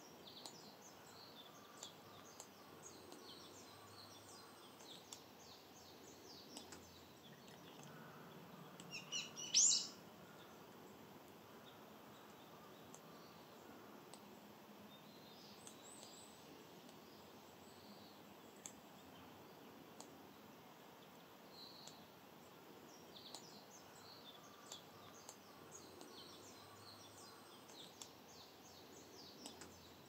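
Wild birds chirping and singing in short, high calls scattered throughout, over a faint steady hiss; one much louder call stands out about nine to ten seconds in.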